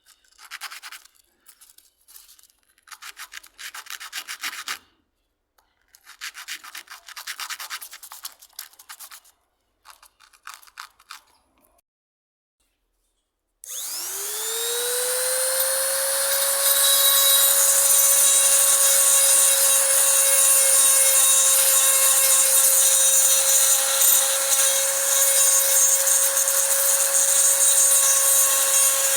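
Hand-sanding strokes, rubbing back and forth in several bursts with short pauses. About halfway through, a high-speed power tool spins up with a rising whine and then runs steadily, with a high-pitched hum and loud hiss, until the end.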